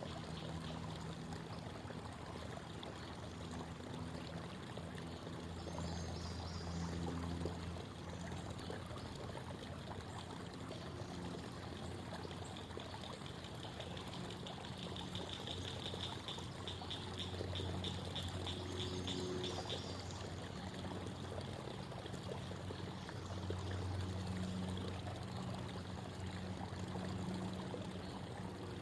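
Creek water babbling and trickling over stones, steady throughout. A rapid, high-pitched trill rises above it for several seconds around the middle.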